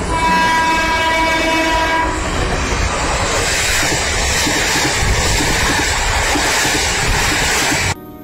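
A passing electric train's horn sounds one steady blast of about two seconds, sounded in tribute as it runs past the platform. The train then keeps rushing past close by with its wheels clacking over the rail joints, until the sound cuts off suddenly near the end.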